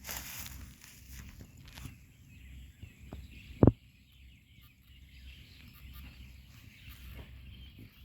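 Outdoor ambience with faint bird calls over a low rumbling background, broken once about halfway through by a short, loud low thump.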